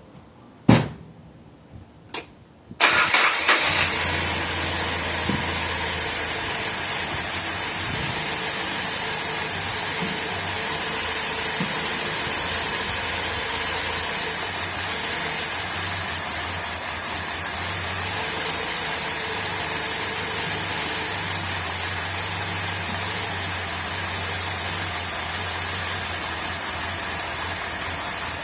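Mitsubishi Galant Σ Eterna's carburetted engine starting: two short clicks, then about three seconds in it catches and runs steadily with a low hum and a hiss, fed by petrol poured straight into the carburettor float chamber.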